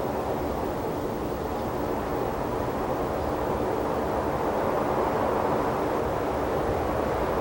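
Steady outdoor rushing noise, slowly growing a little louder toward the end.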